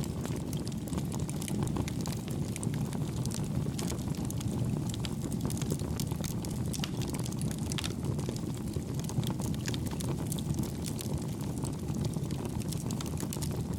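Campfire burning: a steady low rumble of flame with frequent small, soft crackles and pops from the burning wood.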